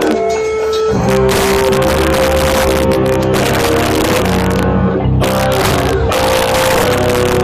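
Live rock band playing loud with electric guitars, bass and drums, recorded with overloaded, distorted sound. The playing is thinner for the first second, then the full band comes in.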